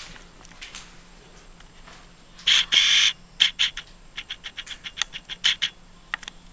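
A bird's harsh screech of about half a second, some two and a half seconds in, followed by a quick run of short sharp calls, about four a second, that stop just before the end.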